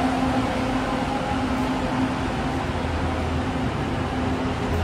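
Hyundai Rotem-built LRTA 2000-series light-rail train pulling out of the station, its motors and wheels running steadily over a constant low hum.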